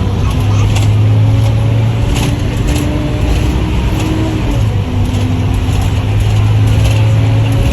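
Bus engine running with a steady low drone, heard from inside the cabin; its pitch dips briefly about four and a half seconds in, then steadies again.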